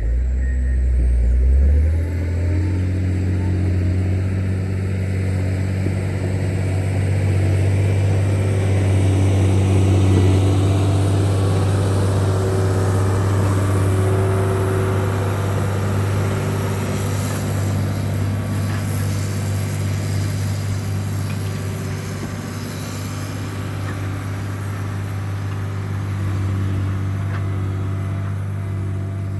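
John Deere 670GP motor grader's diesel engine running steadily while grading, its note stepping up about two seconds in.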